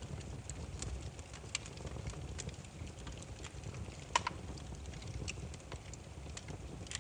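Burning firewood crackling: irregular sharp pops and snaps over a low steady rumble, with one louder pop about four seconds in.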